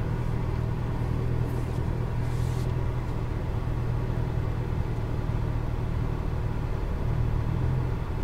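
McLaren 570S's twin-turbo V8 running at low revs as the car creeps along at walking pace, heard from inside the cabin: a steady low drone that swells slightly about seven seconds in.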